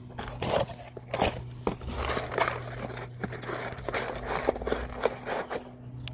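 Plastic packaging crinkling and rustling as it is handled, with small irregular clicks and knocks.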